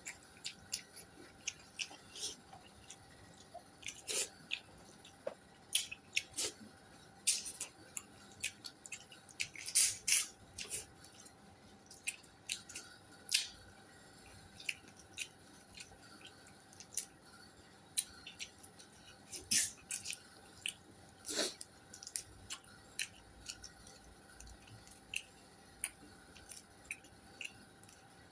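A person eating close to the microphone: irregular wet chewing and smacking clicks, some sharper and louder than others, over a faint steady hum.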